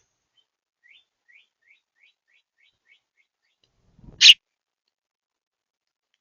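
A small bird at a feeder gives a run of about eight faint, quick rising chirps. About four seconds in there is a soft low bump, then one short, loud, high sharp sound close to the microphone.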